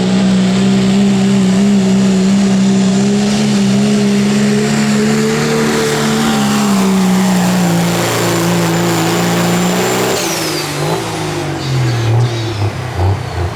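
Turbocharged diesel pull truck running at full throttle under load, its engine note holding steady with a high whistle over it. About ten seconds in the driver lets off: the engine note and the whistle fall away.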